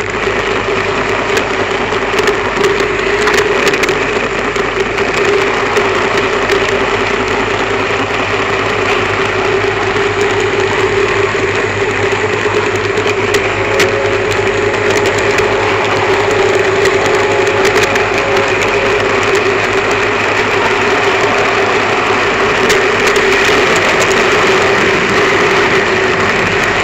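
N gauge model train running along the track, heard from a camera car riding on it: a steady mechanical hum with a constant whine and light clicks.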